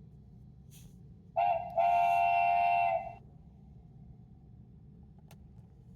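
Steam train whistle sound effect: a short toot followed by a longer blast, several tones sounding together as a chord.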